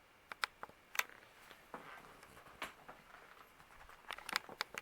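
Scattered soft clicks and taps, sparse at first, then a quicker run of them near the end.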